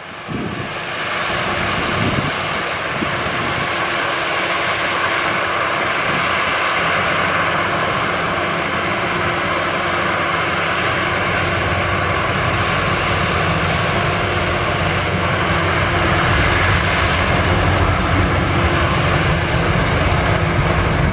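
Maxxi Bimo rice combine harvester running steadily while harvesting, a constant engine drone with the noise of its working machinery.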